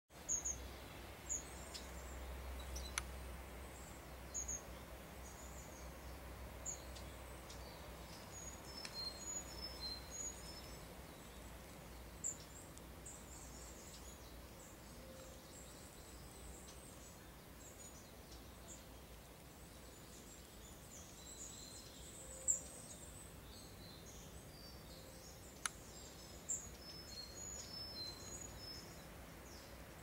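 Small woodland birds calling: scattered short, high chirps and thin whistles, coming in flurries about a third of the way in and near the end, over a faint low rumble. Two sharp clicks, one about three seconds in and one near the end.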